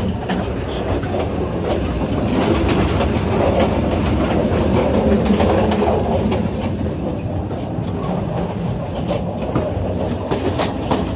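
Passenger train running, heard from inside a shaking carriage: a loud, steady rumble, very noisy, with many sharp clacks and knocks from the wheels and the rattling coach.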